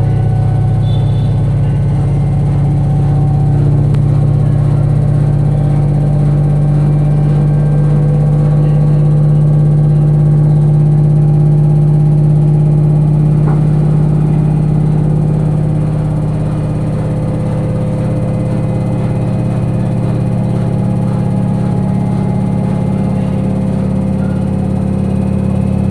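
LG FHP1209Z5M 9 kg front-loading washing machine running with a loud, steady mechanical drone. Its tones shift and it drops a little in level about sixteen seconds in. This is the excessive running noise that the owner reports is still not fixed.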